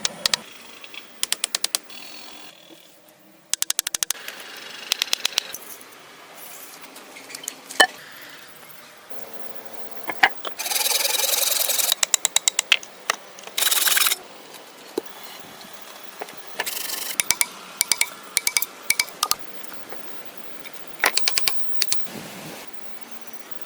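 Hand-tool work: repeated short runs of rapid clicking, with two brief louder bursts of noise near the middle.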